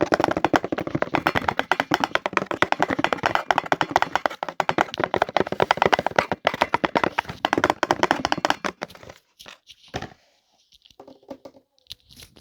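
Rapid close-up tapping and clicking made as an ASMR trigger, many strikes a second for about nine seconds, then a few scattered softer taps.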